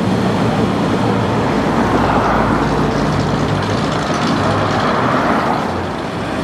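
A custom car's engine running as it drives slowly past, a steady low hum. Engine and road noise swell twice, about two seconds in and again around five seconds.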